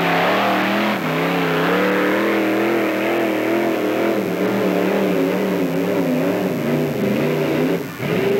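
Vintage Chevy pickup's engine running at high revs under heavy load in a truck pull, its pitch wavering as it works. The level dips briefly about a second in and again near the end.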